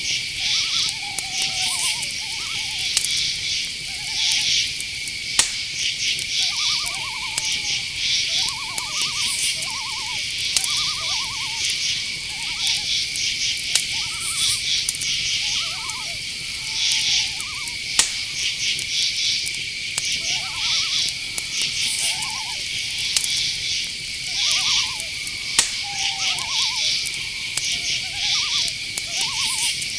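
A steady chorus of crickets and other insects chirring, with a continuous high trill. Short, repeated owl hoots come every second or two over it, and there are a few sharp clicks.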